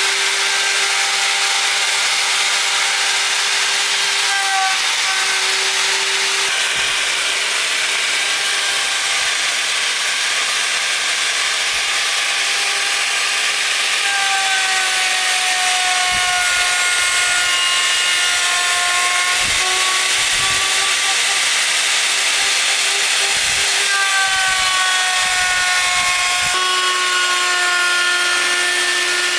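Electric power tool working wood, running steadily with a motor whine over a constant hiss; the whine's pitch drifts slightly up and down as the load changes.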